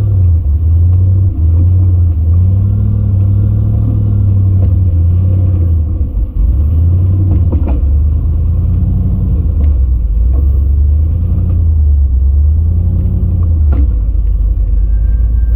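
Full-size rock-crawling buggy's engine running at low speed and working under throttle as it climbs a rock line, with its pitch rising and falling a little and a few sharp knocks along the way.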